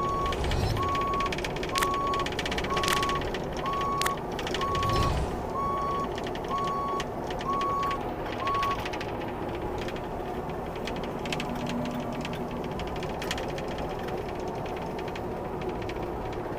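Bobcat E26 mini excavator's diesel engine running, its travel alarm beeping about once a second for the first nine seconds, then stopping. A few sharp metallic knocks sound over the first five seconds.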